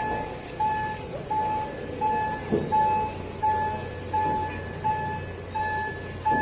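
Railway warning signal sounding a steady electronic beep, one short tone roughly every 0.7 seconds, over a low steady rumble.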